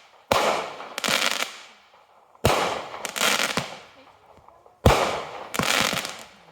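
Consumer fireworks going off: three sharp bangs about two seconds apart, each followed by about a second of crackling and smaller pops that dies away.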